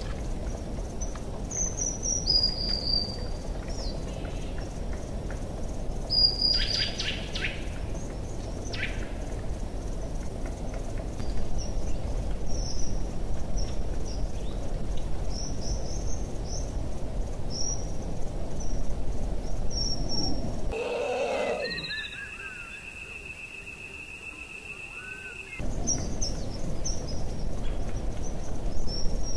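Birds chirping in short calls over a steady low outdoor rumble. Near the end the rumble drops away for about five seconds and a steady high tone sounds instead.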